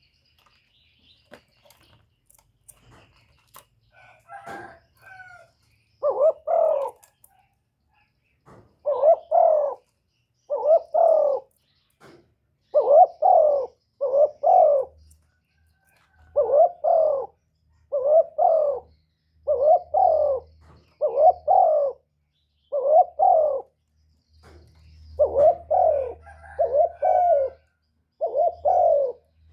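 Spotted dove cooing: the male's bowing display coo ('cu gù'), short two-part coos repeated about every one to two seconds, beginning about six seconds in.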